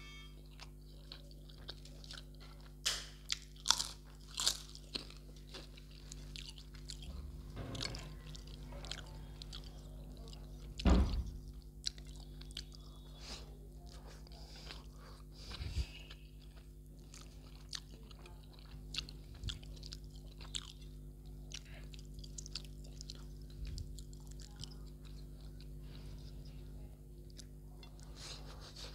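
A person chewing and biting on a mouthful of rice and mutton curry eaten by hand, with frequent sharp crunches and wet mouth clicks. The loudest crunch comes about 11 seconds in.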